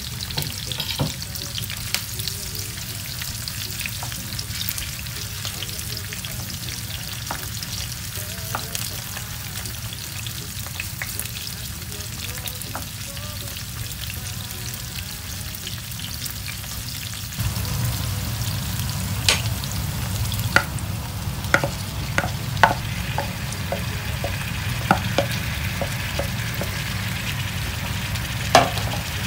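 Sliced red onion and garlic sizzling as they fry in oil in a nonstick pan, stirred with a wooden spatula. After about seventeen seconds the sound deepens and sharp knocks of the spatula against the pan come more often.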